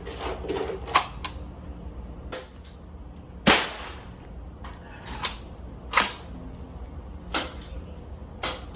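Gunshots at irregular intervals: about five sharp reports over eight seconds, the loudest about three and a half seconds in, with fainter cracks between them.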